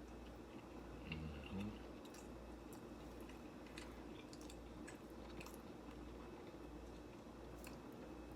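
Faint close-up chewing with small wet mouth clicks from someone eating a pasta dish, over a steady low hum.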